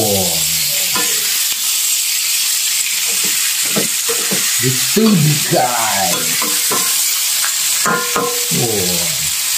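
Fermented fish and kepayang pieces sizzling as they fry in a wok, with a metal spatula stirring and scraping against the pan.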